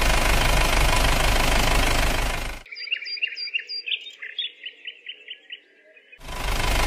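A vehicle engine running with a rough, rhythmic knock, cutting off sharply about two and a half seconds in. A bird then chirps in a quick series of short chirps for about three and a half seconds, and the engine sound comes back in sharply near the end.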